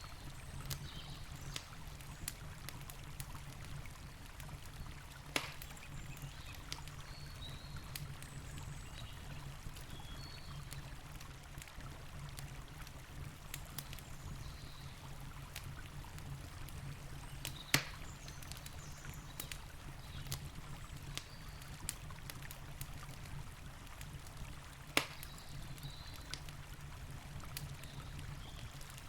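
Campfire crackling with scattered small ticks and a few sharp pops, over the steady rushing of a river.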